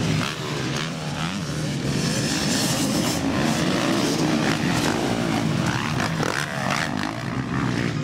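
Several motocross bikes racing, their engines overlapping and revving up and down continuously.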